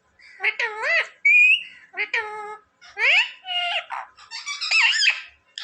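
Ringneck parrot talking: several short, high-pitched, squeaky phrases imitating human speech, with a brief whistled note about a second in.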